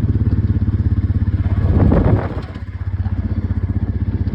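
Engine of a farm vehicle running steadily, heard from on board, its low note pulsing quickly, with a brief louder rush of noise about two seconds in.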